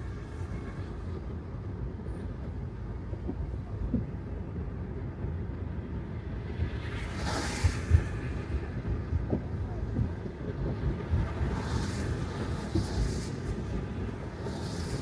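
Tesla Model 3 driving on wet city streets: a steady low rumble of tyres on the road, with a few light bumps and short swells of tyre hiss about halfway through and again near the end.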